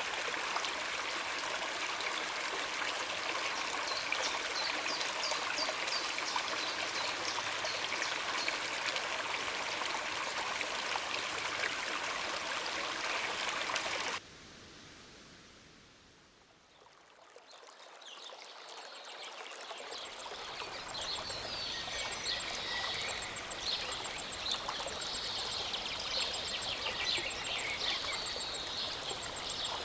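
A small mountain stream running steadily, with birds chirping over it. About halfway through the sound cuts off abruptly, and a few seconds later a new stretch of birdsong over steady outdoor ambience fades back in, the birds more prominent than before.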